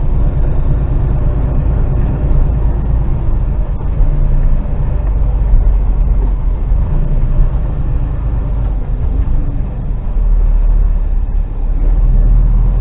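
Articulated lorry's diesel engine heard from inside the cab, pulling steadily up a steep hill. A deep, even rumble that grows a little louder near the end.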